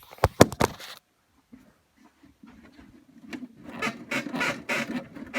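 Honda Partner's right front suspension squeaking in a quick repeated rhythm as the car is rocked up and down, which the owner suspects comes from the strut. A few sharp clicks come in the first second.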